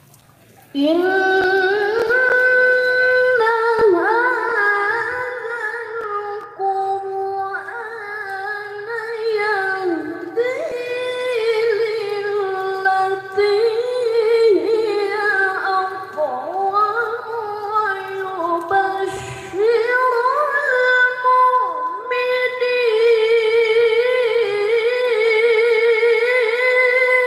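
A high voice reciting the Quran in the melodic tilawah style. It enters about a second in and holds long, ornamented phrases, with a brief breath about two-thirds of the way through.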